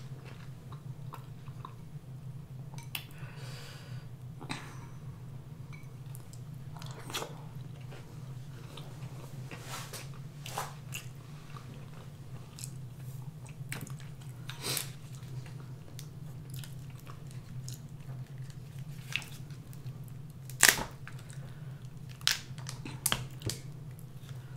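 Close-miked chewing with wet mouth clicks and smacks, over a steady low hum. A few louder, sharper clicks come near the end as a king crab leg is handled and broken apart.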